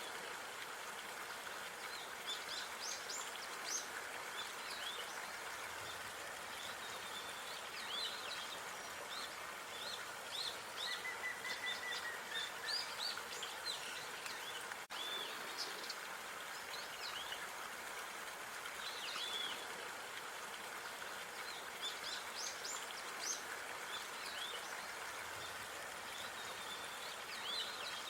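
Small songbirds chirping and calling, many short high notes scattered throughout, over a steady outdoor background hiss.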